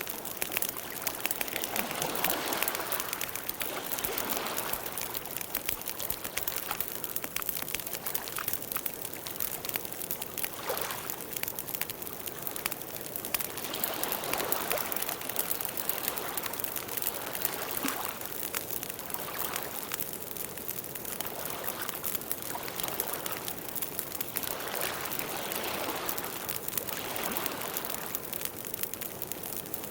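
Campfire burning steadily: wood crackling with many small, quick pops, over a soft rushing of the flames that swells and fades every couple of seconds.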